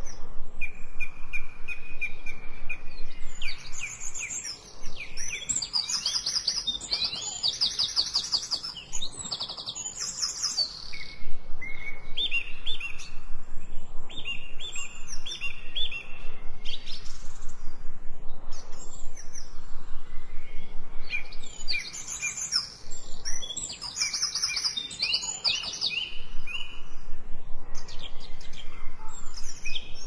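Songbirds singing: fast high trills and runs of quick repeated notes, with the loudest burst of song coming twice.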